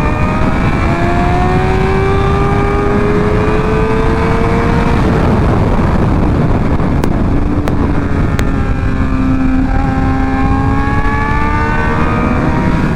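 Motorcycle engine pulling hard under acceleration, its pitch climbing for about five seconds, then dropping back lower and climbing again near the end, under steady wind rush. Three short clicks come in the middle.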